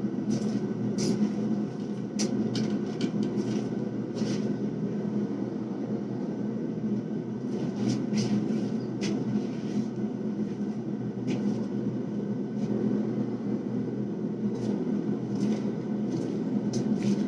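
Forge running steadily while a steel billet heats in it, with scattered faint clicks.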